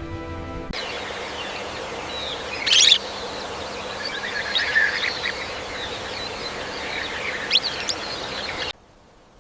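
Birds chirping and calling over a steady outdoor ambience hiss, with scattered short high calls; it comes in after the last notes of background music fade, about a second in, and cuts off suddenly near the end.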